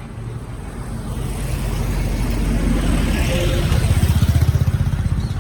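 Motor vehicle engine and road rumble, growing louder and pulsing rapidly near the end.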